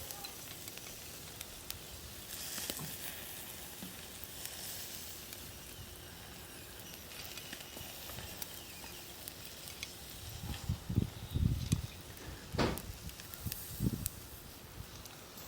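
Steady faint sizzling with scattered small crackles from a shichirin charcoal grill and wood fire. A few dull thumps and one sharp knock come about ten to fourteen seconds in.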